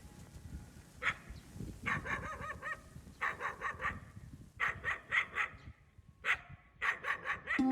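Street dog barking in quick runs of high-pitched barks separated by short pauses.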